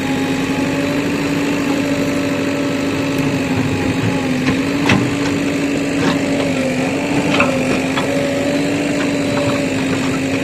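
Backhoe loader's diesel engine running steadily at an even pitch, with a few sharp knocks about halfway through.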